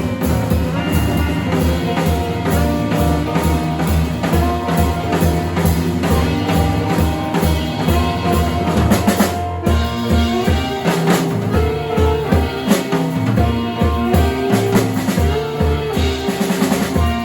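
A jazz band of alto saxophone, piano, keyboard and drum kit playing live. The drum kit stands out, with busy bass drum, snare and rim hits, under held melodic notes. There is a sharp accented break about nine and a half seconds in, followed by fast drum fills.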